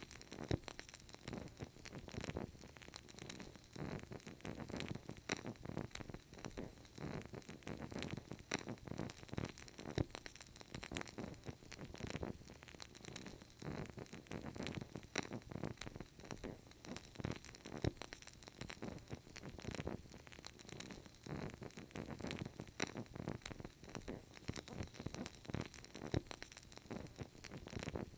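Burning candle crackling softly, a steady stream of small irregular pops and ticks.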